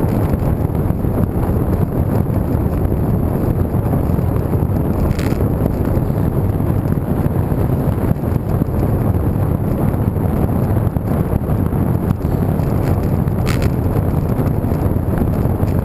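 Wind rushing over the microphone of a camera riding along on a bicycle: a steady, loud, low rumble. It is broken by two brief ticks, about five seconds in and again later on.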